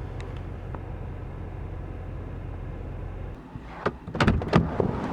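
Steady low hum of a vehicle idling, which stops about three seconds in, followed by a quick cluster of sharp clunks and clicks near the end.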